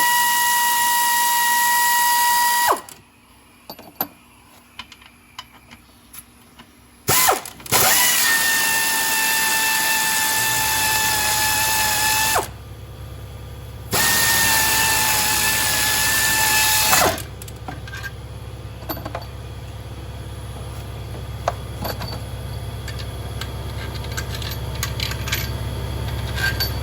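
Power tool running in three long bursts of a few seconds each with a steady whine, spinning out fasteners during a diesel engine top-end teardown; scattered clicks and ticks of hand tools fall between the bursts. From about ten seconds in, a low steady hum runs underneath.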